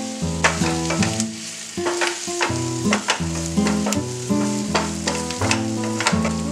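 Wooden spatula stirring and scraping cubed potatoes in a sizzling frying pan, with frequent clicks of the spatula against the pan, over background music.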